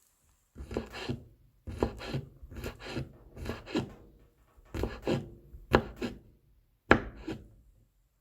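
Kitchen knife mincing garlic on a cutting board: a run of quick, uneven chopping strokes, with the two sharpest near the end.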